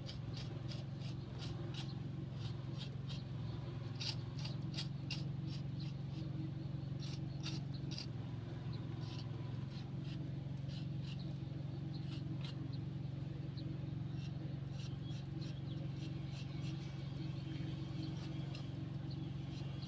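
Many small clicks and scrapes from handwork, densest in the first half, over a steady low hum.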